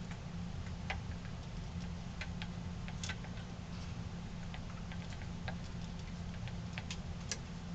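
Irregular light clicks and ticks as the wooden dummy's ear mechanism, spring-loaded rods in the back of the head, is worked up and down, over a steady low hum.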